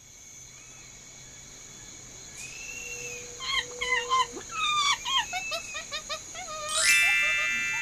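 Chimpanzee calling over a rainforest ambience: a quick run of short hoots and squeals that step lower starts about three seconds in, then a loud, long scream comes near the end. A steady high drone runs underneath.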